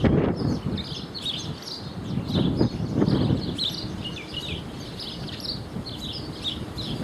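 Several small birds chirping in many quick, short, high notes that overlap throughout. A low rumble comes in gusts under them, loudest at the start and about three seconds in.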